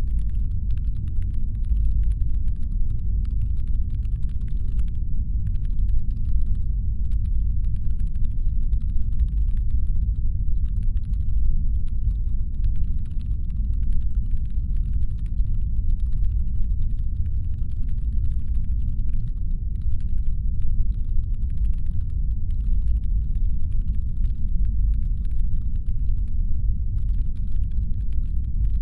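Steady, deep brown-noise rumble designed as a spaceship's engine hum. Above it sits a faint layer of rapid fine clicking, with short gaps about five seconds in, about seven seconds in and near the end.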